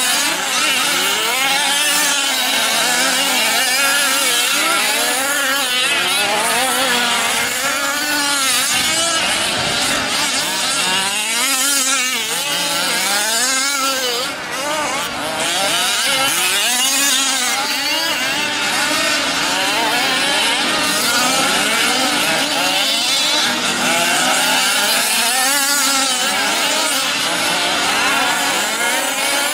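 Several 1/5-scale RC racing trucks' small two-stroke gas engines running at once, each revving up and dropping off in overlapping waves of buzzing pitch as they race around the track.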